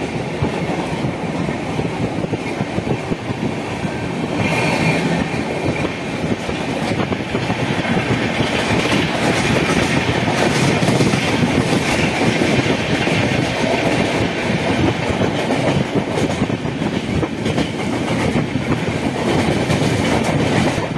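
Passenger train coach running along the track, loud and steady, its wheels clattering on the rails, heard through an open window.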